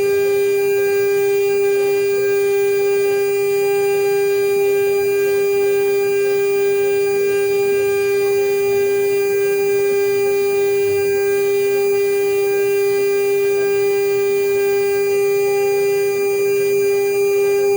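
CNC router spindle running at constant speed while machining an aluminium plate, a steady whine that holds one pitch with overtones above it.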